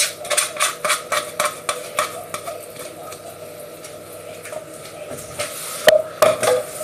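Diced onion going into a pan of olive oil and being stirred, with a spoon clicking and knocking against the pan: a quick run of knocks in the first couple of seconds, then a few more near the end.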